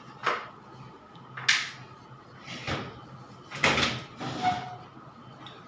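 A series of short scraping and knocking handling noises, about one a second, the loudest about a third of the way in and again past the middle, over a faint steady low hum.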